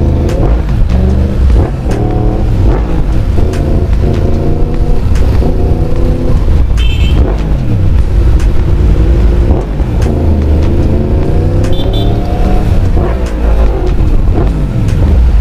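Motorcycle engine accelerating through the gears, its pitch rising and then dropping with each shift, over a steady low wind rumble. Two short high beeps sound about seven and twelve seconds in.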